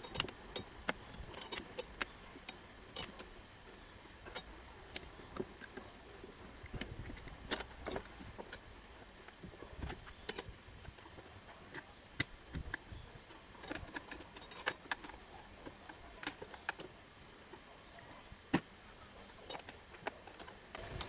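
Light metallic clinks and knocks at irregular intervals, as of hand tools and metal parts being handled, with quiet stretches between.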